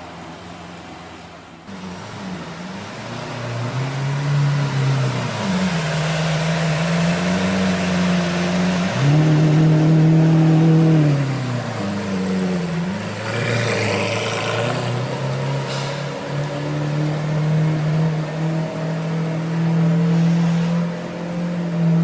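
Lamborghini Aventador's V12 engine revving, its pitch rising and falling several times before settling to a steadier pitch for the last several seconds, after a brief steady hiss at the start.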